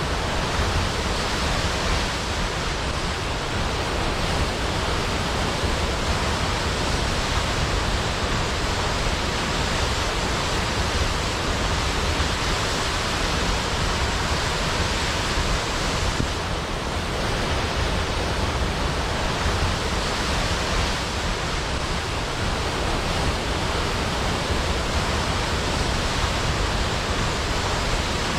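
Large waterfall: water falling and crashing into a pool in a steady, dense rush with a deep low rumble.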